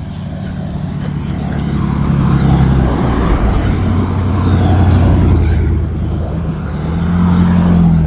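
Road traffic passing close by: engine and tyre noise from a vehicle that swells over the first few seconds and holds loud, eases, then swells again near the end as another engine note comes in.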